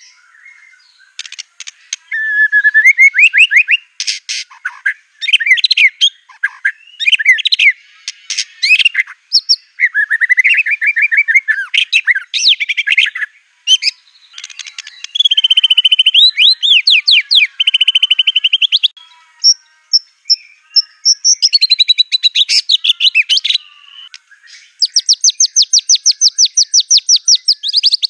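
White-rumped shama (murai batu) singing loudly in varied phrases: fast trills, rapid repeated notes and rising and falling whistles, with short pauses between phrases. The song is filled with mimicked phrases of other songbirds such as the canary.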